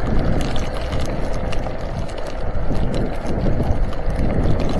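Ecotric fat-tire electric bike riding over snow: a steady low rumble of wind on the microphone and tires rolling, with scattered crunching clicks from the snow.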